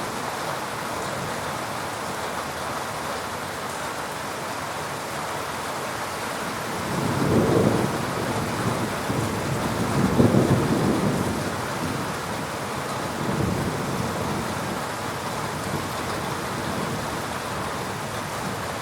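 Heavy rain falling steadily, with distant thunder rumbling in low swells about a third and halfway through, the second the loudest, and a fainter rumble after.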